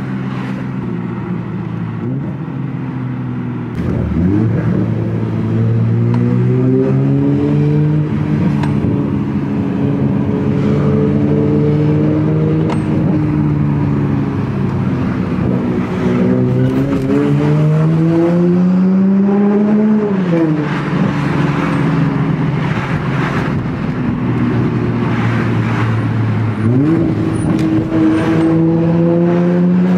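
Toyota Supra's engine through a Tomei aftermarket exhaust, pulling up through the revs while driving. The pitch climbs in several steady pulls. It drops sharply about two-thirds of the way in, then climbs again near the end, as at gear changes.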